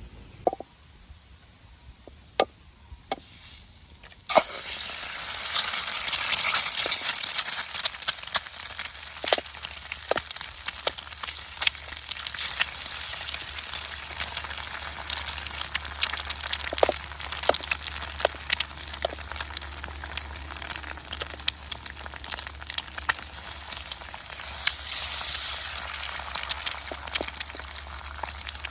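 Food sizzling and crackling in a hot pan. A few clicks come first, and the frying starts suddenly about four seconds in, as if food has just gone into hot oil, then sizzles steadily with constant crackles.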